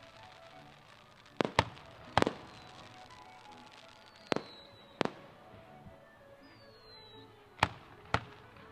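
Fireworks going off: seven sharp bangs at uneven intervals, with two short whistles that fall in pitch in the middle.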